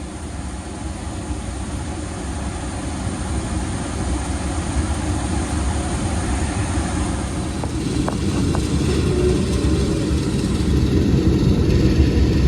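A 2021 Carrier gas furnace running, a steady whooshing roar that slowly grows louder, with a couple of light clicks about eight seconds in.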